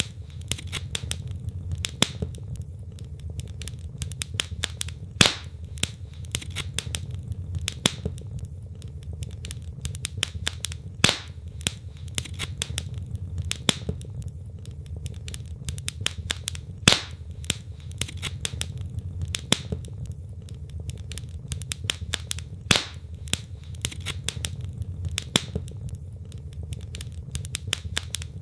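Wood fire burning in a fireplace: a steady low rumble of the flames with frequent sharp crackles from the logs and a louder pop every few seconds.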